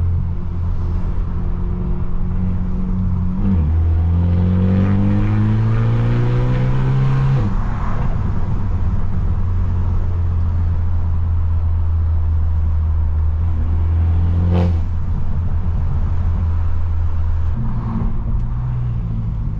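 Straight-piped BMW F30's engine and exhaust under way: a steady drone, then a pull about three and a half seconds in, its pitch rising for about four seconds before cutting off suddenly. It settles back to a steady drone, with a single sharp crack about fifteen seconds in.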